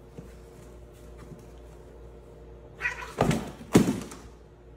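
A cardboard box with a cat inside tips over onto a wooden floor: a short cat call, then two heavy thumps with a rustle of cardboard about three seconds in.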